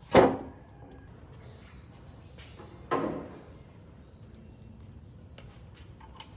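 Two sharp knocks about three seconds apart, each dying away quickly, with faint bird chirps in the background.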